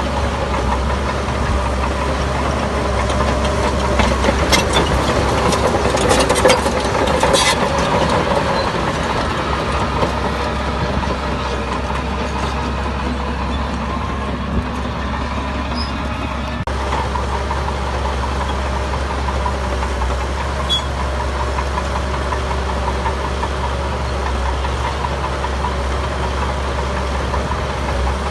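Heavy diesel construction machinery running steadily, with a run of sharp metallic clanks about four to seven seconds in.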